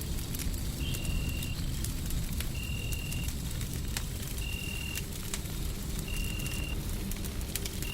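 Fire crackling with scattered sharp pops over a steady low rumble of white noise. A short high beep sounds about every second and three quarters, five times in all.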